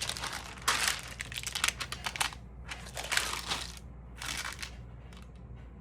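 Crinkling and rustling as stamps in their packets and sleeves are handled, in several bursts over the first four and a half seconds, then fading.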